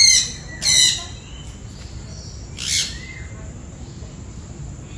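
A bird calling: short, high-pitched calls, one at the start, another just under a second in, and a fainter one near three seconds.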